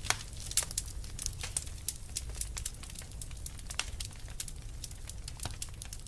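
Fire crackling in a fireplace: irregular sharp snaps and pops, several a second, over a steady low rumble of the burning.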